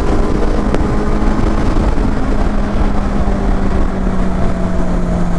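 Kawasaki Z800's inline-four engine running steadily while the bike is ridden, its pitch slowly easing down, over a heavy low rumble. There is a brief click a little under a second in.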